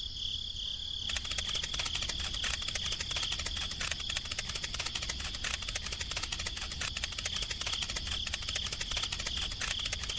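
Crickets chirping in a steady pulse, then about a second in a small tractor engine starts idling with a fast, continuous rattle that runs on over the chirps.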